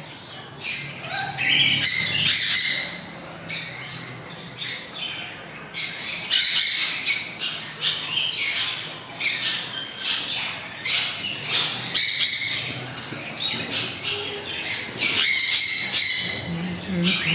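Pet parrots squawking and chirping, many short high calls one after another.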